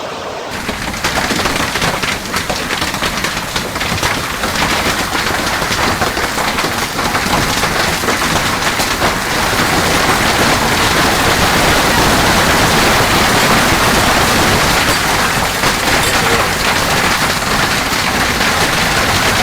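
Storm of hail and heavy rain pelting down: a dense, steady clatter of countless impacts that grows louder about halfway through.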